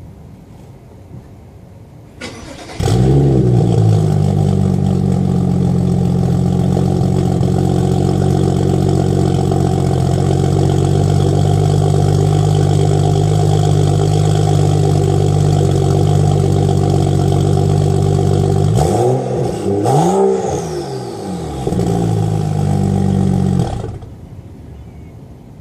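Car engine cold-started: a brief crank about two seconds in, then it catches and runs at a steady idle. Around nineteen seconds it is revved twice, and it settles before being shut off suddenly near the end.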